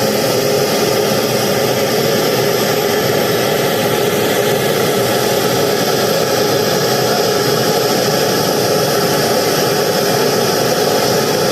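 Pink-noise test signal played loud through a large sound system for a real-time analyzer (RTA) check: a steady, even hiss across all pitches, with no rhythm.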